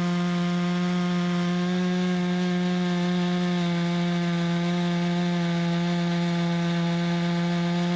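Climbing chainsaw running at full throttle in a steady cut through a thick, tensioned fork of timber, its pitch dipping slightly a few seconds in as the chain takes more load.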